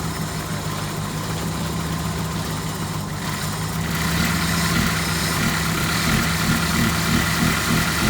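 Car engine idling steadily; it gets a little louder about four seconds in.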